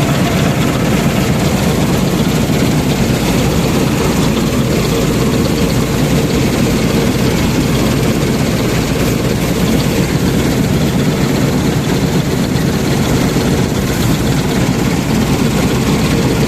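Combine harvester running steadily: a loud, even engine and machinery drone that holds without change.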